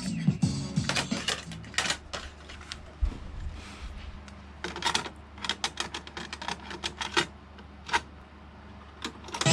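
Pioneer CT-5100 cassette deck being operated by hand: irregular mechanical clicks and clacks from its transport keys and tape mechanism, some in quick clusters, between stretches of playback.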